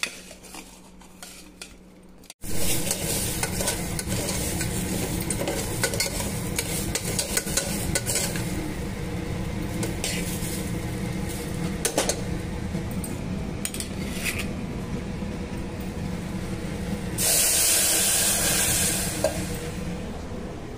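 Broken wheat (daliya) and spices sizzling in oil in a steel pressure cooker while a metal spoon stirs and scrapes the pot, after a quiet start with a low hum that cuts off suddenly a couple of seconds in. The hiss grows louder for about two seconds near the end.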